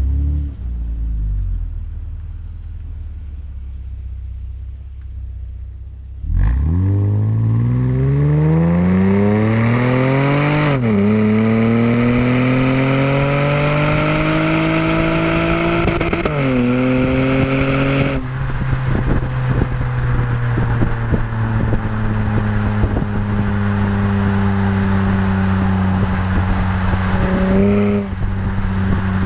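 2012 Acura TL SH-AWD's 3.7-litre V6 through an ATLP aftermarket exhaust, running at a low steady note, then suddenly pulling hard about six seconds in. The engine note climbs steeply through the revs, with two upshifts where the pitch drops sharply and climbs again. Near twenty seconds in it lifts off to a steady, slowly falling cruise note.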